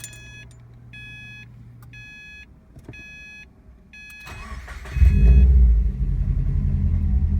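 Subaru WRX's flat-four engine being started: a dashboard warning chime beeps about five times, then the starter cranks briefly and the engine catches with a loud flare about five seconds in and settles into a steady idle. The engine has been logging misfire codes on cylinders 1, 3 and 4.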